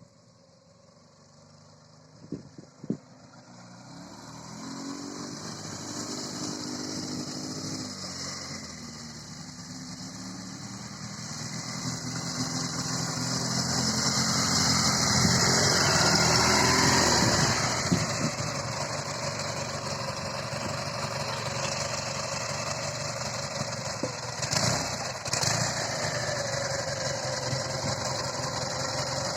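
Dnepr MT-10 flat-twin motorcycle engine powering a homemade buggy, revving up and down as it drives. It grows louder from a few seconds in, is loudest near the middle, then runs steadily. A few sharp knocks come just before it.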